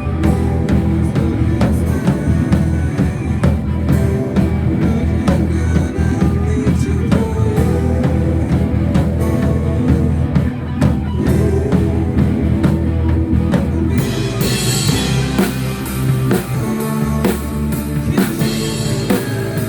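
Rock band playing, with drum kit and guitar. About fourteen seconds in, the cymbals grow brighter and the bass line changes.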